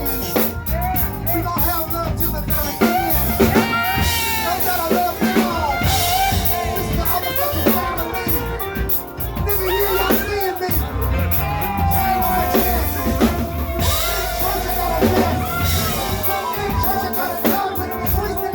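A live band playing, with a voice singing a melody over drum kit and heavy bass.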